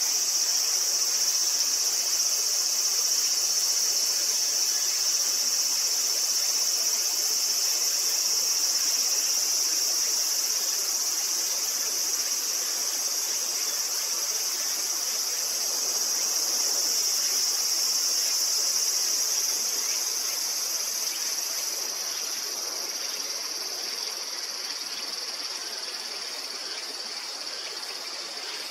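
A steady, shrill insect chorus, one continuous high-pitched note, that gets quieter over the last several seconds.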